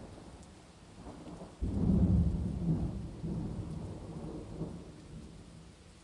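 Thunder over steady rain: a clap breaks in suddenly about a second and a half in, then rolls as a low rumble that slowly dies away.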